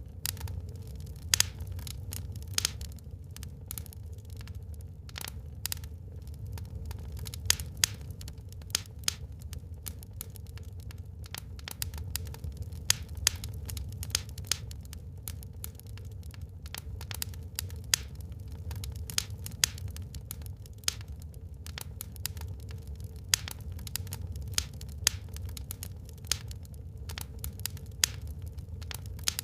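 Wood fire burning in a fireplace, crackling with irregular sharp pops, several a second and some much louder than the rest, over a steady low rumble.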